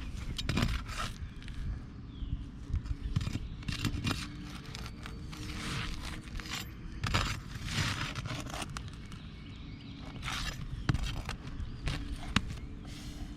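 Irregular scraping, crackling and tearing strokes with a few sharp clicks: roof shingles being pried up and handled during a repair attempt.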